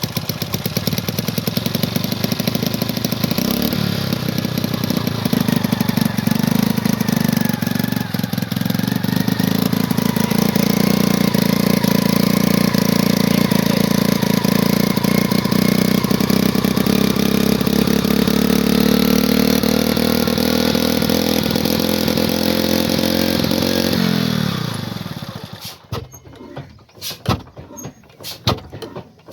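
Old stationary 'black engine' diesel running loudly, its note slowly rising as it picks up speed, then winding down and stopping about 24 seconds in. A few scattered knocks and clicks follow.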